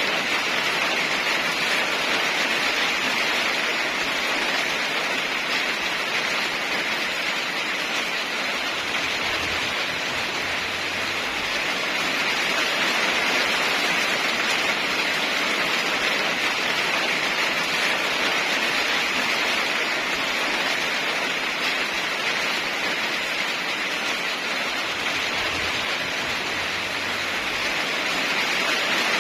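Steady heavy rain: an even hiss that slowly swells and eases.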